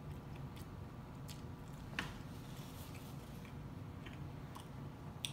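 A person chewing a mouthful of fresh rice paper roll up close to the microphone: soft wet mouth clicks and smacks, with one sharper click about two seconds in.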